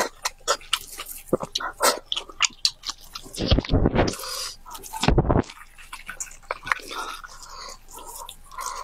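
Close-miked wet chewing and lip smacks on braised pork, a quick run of small clicks. Two louder handling noises come about three and a half and five seconds in, as gloved hands tear the soft braised meat apart.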